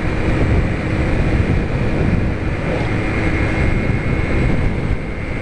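Small motorcycle cruising steadily at highway speed, about 90 km/h, its engine drone mixed with heavy wind rushing over the rider-mounted microphone.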